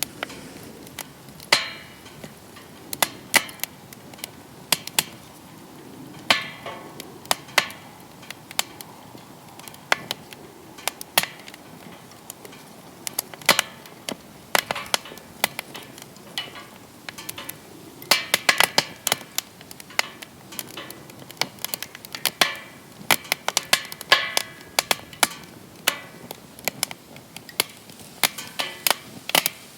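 Wood fire crackling in a fire pit: irregular sharp pops and snaps, some coming in quick clusters, over a faint steady hiss.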